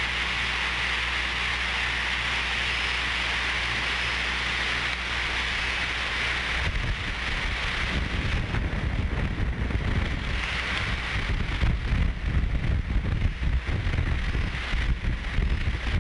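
Steady rain-like hiss over a low electrical hum. About seven seconds in, gusts of wind start buffeting the microphone with an uneven low rumble.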